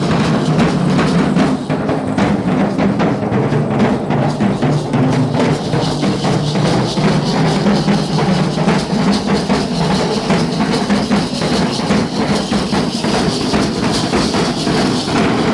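Danza (matachines-style) drums beating a fast, steady rhythm for the dancers, dense continuous percussion without pause.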